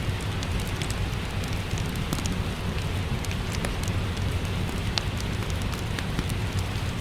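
Steady rain falling, with a low rumble underneath and a wood fire crackling in a fireplace, giving many scattered sharp pops and ticks.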